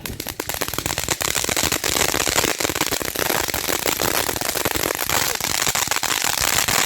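Crackling firework going off: a dense, continuous stream of rapid small pops that begins abruptly and stays loud and steady. It is the loud crackling effect of a consumer firework.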